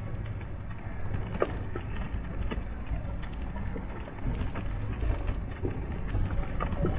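Steady low rumble of a truck, with scattered short clicks and knocks over it.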